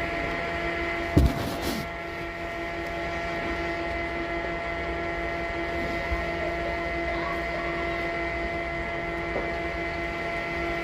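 Sawmill machinery running steadily with a constant hum. A single sharp knock comes about a second in.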